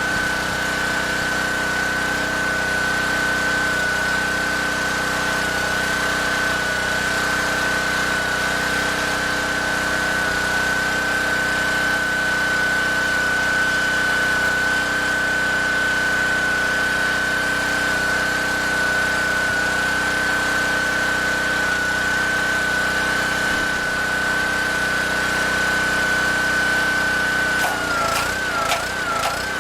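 A motor-driven machine running steadily with a constant high whine; near the end the whine starts wavering up and down.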